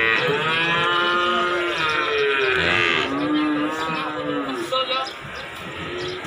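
Cattle mooing: several long, loud moos one after another, each bending up and then down in pitch, fading after about four and a half seconds.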